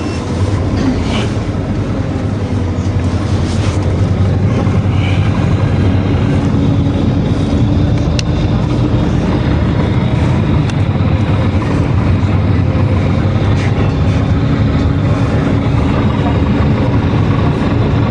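Inside a PAZ-422320-04 Citymax 9 city bus under way: a steady, loud engine drone mixed with road noise, growing louder over the first second and then holding even.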